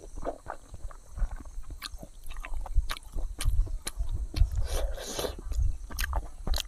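A person chewing food close to the microphone: many short, wet mouth clicks and crunches of a mukbang meal, over a low rumble of wind on the microphone.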